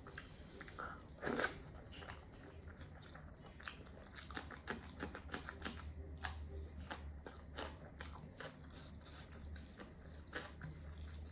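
A person chewing and smacking their lips while eating chicken curry, close to the microphone: a run of small wet mouth clicks, with one louder one about a second and a half in.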